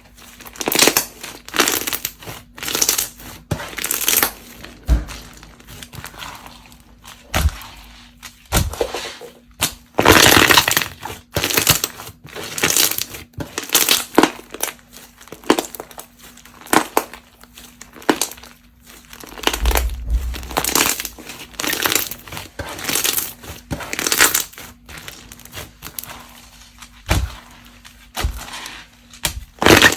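Slime being handled and pressed for ASMR: an irregular run of sharp pops and crackles, one or two a second, with a brief deeper thump about two-thirds of the way through.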